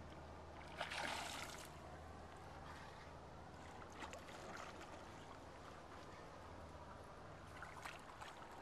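Boat motor running steadily at trolling speed, a low hum, with a brief rush of noise about a second in and a few fainter knocks and rustles later.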